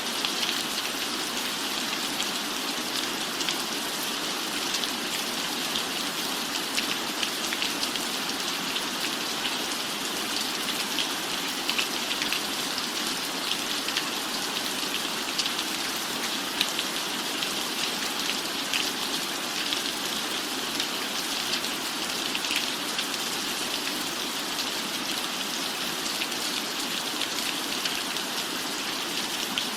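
Steady rain falling: an even hiss scattered with many small drop hits.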